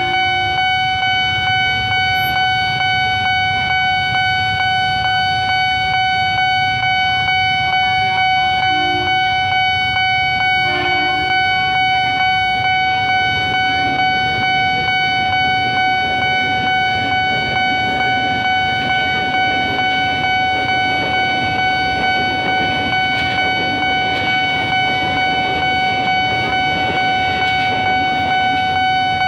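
Railway level-crossing warning alarm sounding: a steady, regularly pulsing electronic tone that runs on without a break. A train rumbles through the crossing from about halfway, with a few short vehicle horn toots early on.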